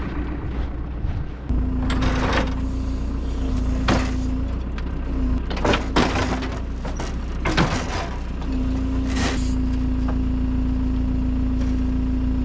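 Loader's diesel engine running under load as the forks lift, with a steady whine that comes in about a second and a half in, drops out a few times and then holds. Several short clunks and hisses sound between about 2 and 9 seconds.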